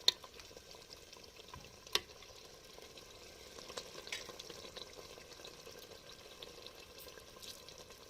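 Chicken curry in its gravy sizzling and simmering in the pan after water has been added, a steady faint hiss. Two sharp knocks stand out, one at the very start and one about two seconds in.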